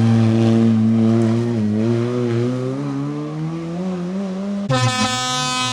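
Rally car engine pulling hard in gear, its pitch rising steadily for a few seconds. Near the end the sound changes abruptly to a harsher, higher engine note.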